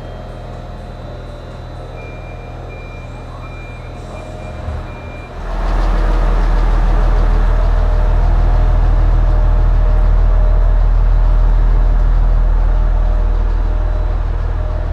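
A short run of high beeps over a low idling hum, then about five seconds in a train's diesel engine powers up sharply and runs with a loud, heavy low drone as the railcar gets under way, easing slightly near the end.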